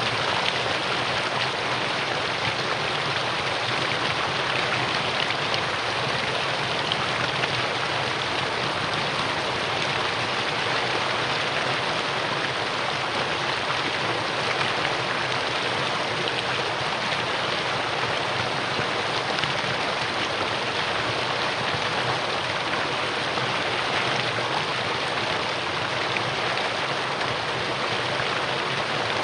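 Mountain valley stream rushing steadily over rocks, an even, unbroken wash of water.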